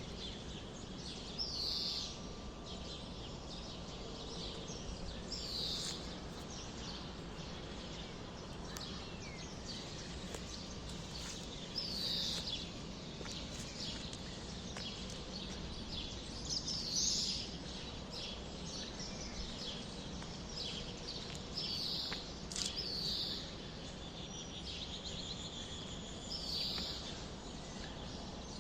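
Small birds chirping in short, scattered calls every second or two, over a steady low background rumble.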